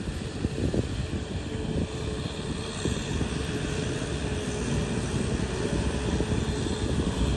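Tractor engine running steadily under load, with a low, fast, even pulse.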